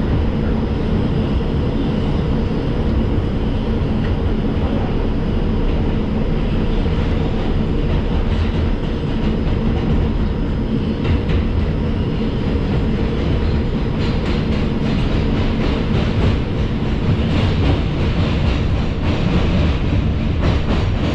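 An R142 subway car running at speed through the tunnel, heard from inside the car: a steady, loud wheel-on-rail rumble. In the last third it is joined by a run of quick clicks and clacks from the track.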